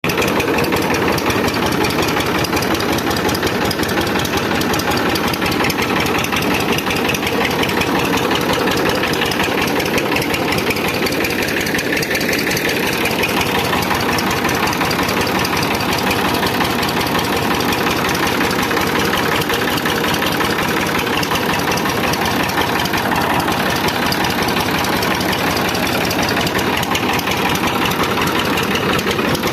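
Massey Ferguson 5245 tractor's diesel engine running steadily at idle with a rapid, even clatter.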